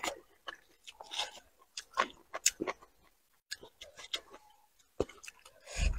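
Close-miked chewing of a mouthful of food, with wet lip smacks and irregular short mouth clicks; the loudest smack comes near the end.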